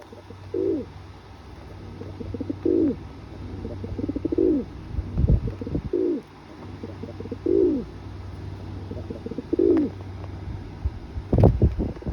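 A pigeon cooing, about six coos each falling in pitch and spaced a second and a half to two seconds apart. A sharp click comes near the end.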